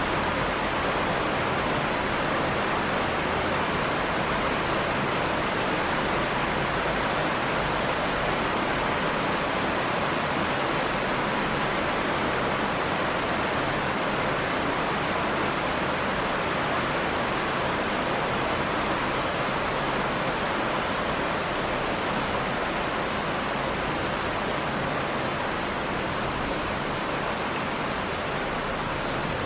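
Steady heavy rain: a dense, even hiss of falling water with no single drops or breaks standing out.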